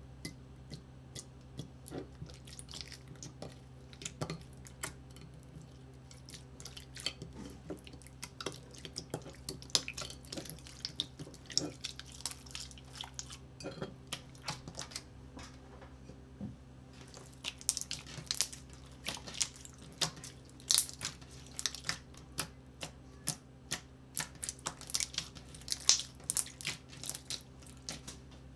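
Slime being pressed and squished by hand at close range: a string of small crackling clicks and pops, busier and louder in the second half, over a low steady hum.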